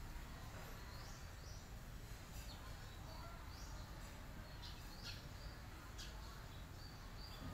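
Faint outdoor background hiss with small birds chirping: short high chirps about once a second, a few sharper ones near the middle.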